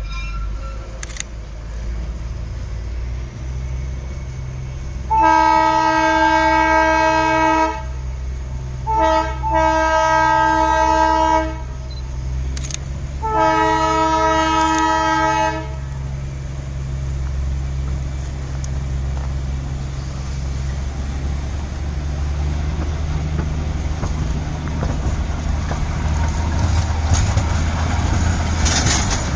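Train horn sounding three long blasts of a few seconds each. They play over the steady low rumble of a running train, which grows louder near the end.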